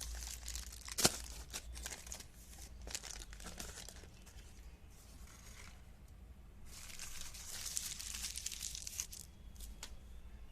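Crinkling, tearing handling noises of some material being crumpled or pulled apart, with a sharp snap about a second in and a louder stretch of hissy crinkling around seven to nine seconds in.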